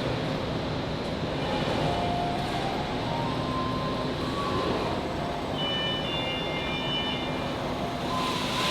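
Heavy factory machinery running steadily, with short high-pitched metallic squeals coming and going and a brief hissing rush near the end.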